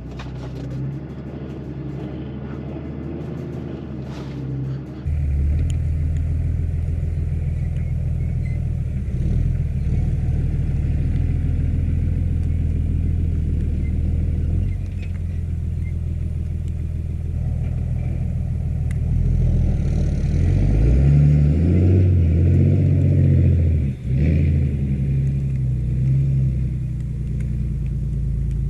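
Pickup truck engine and drivetrain running steadily while driving a slippery snow-covered dirt trail, getting louder about five seconds in and rising and falling in pitch a little after twenty seconds as the driver works the throttle.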